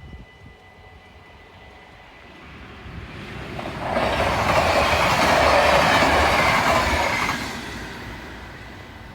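A train passing over a level crossing. Its rumble builds, the rush of wheels on rail is loudest for about three seconds in the middle, then it fades away.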